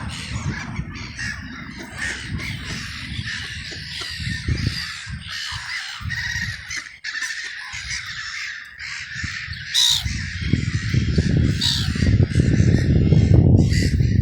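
A flock of crows cawing, many short calls overlapping. A low rumble grows louder underneath about two-thirds of the way in.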